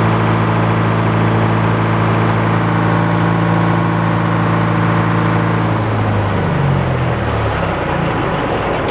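Electric power saw motor running steadily, then switched off about six seconds in and spinning down, its pitch falling.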